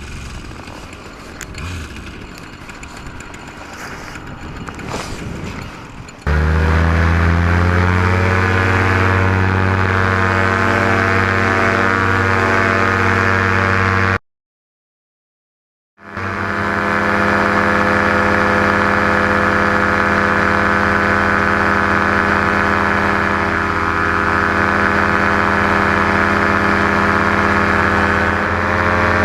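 JPX two-stroke paramotor engine and propeller coming in suddenly about six seconds in and running loud and steady, its pitch settling slightly upward at first. Before that there is only a quieter, uneven rustling noise. The sound cuts out completely for about two seconds midway, then the engine runs on steadily.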